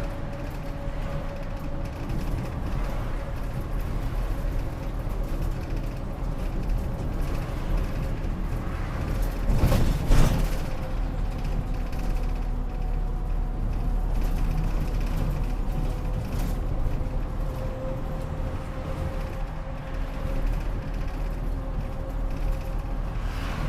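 Inside a Gifu Bus route bus running between stops: engine and drivetrain rumble with a steady whine, and creaks and rattles from the body. About ten seconds in, a louder rushing noise rises and fades over roughly a second.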